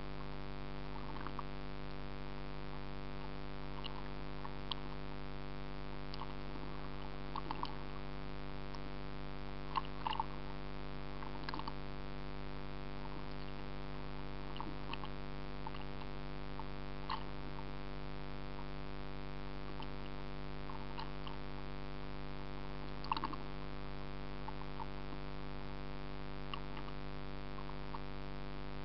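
A steady hum made of many even tones, with faint irregular ticks and clicks over it.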